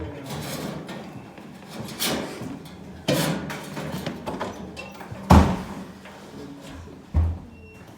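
Several separate knocks and clunks of metal parts being handled, the loudest a little past halfway and a low thud near the end.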